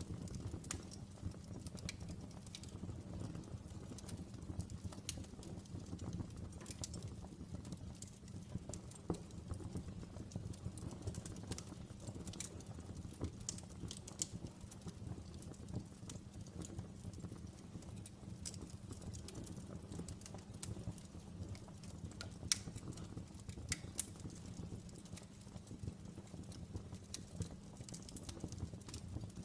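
Open fire burning: a steady low rumble of flames with irregular sharp crackles and pops, a few of them louder than the rest.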